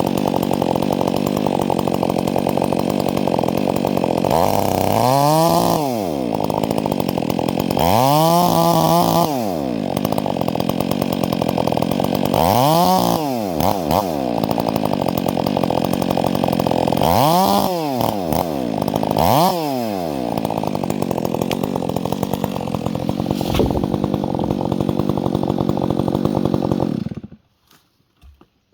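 Chainsaw engine running, revved up and back down five times, then switched off, cutting out suddenly near the end.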